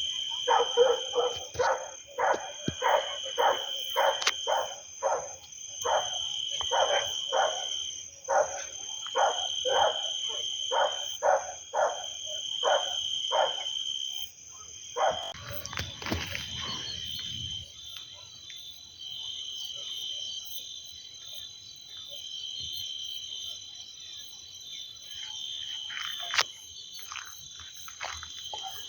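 Night chorus of insects and frogs: shrill steady insect trills pulsing about once a second, with rapid repeated frog calls about three a second that stop about halfway through. A brief low rumble comes just after the frog calls stop.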